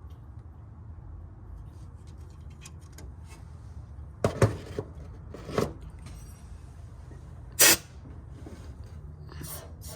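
Hand tools working on an engine's valve train: a screwdriver prying a valve spring held in a lever-type valve spring compressor while a valve keeper is fitted. A few faint ticks, then a cluster of sharp metal clicks about four seconds in, another near five and a half, and the loudest, a short metallic clink, just before eight seconds, over a low steady hum.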